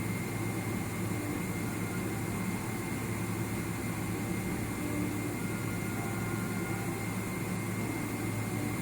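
Steady cabin noise inside a Boeing 777-300ER on the ground just after landing: an even low rumble and air hiss from the engines and cabin air, with a thin steady high whine.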